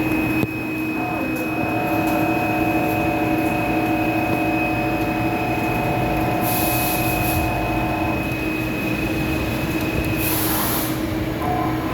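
CNC lathe running: a steady machine whine with several held tones that shift as the machine works, one set dropping out about eight seconds in and returning near the end. Two short bursts of hissing spray come about six and a half and ten seconds in.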